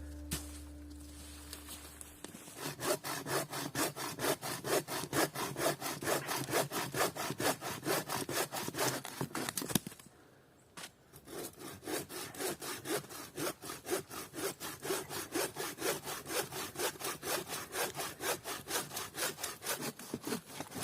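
Hand saw cutting through a dead, dry spruce pole for firewood, in quick even back-and-forth strokes, about three a second. The sawing stops briefly about halfway, then starts again.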